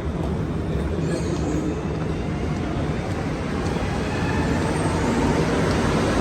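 Montreal Metro train rumbling, a steady low noise that grows slowly louder.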